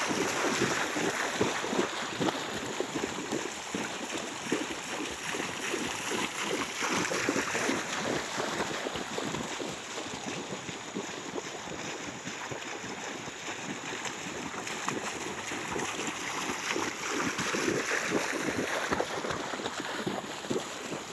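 Continuous irregular splashing of feet running through water.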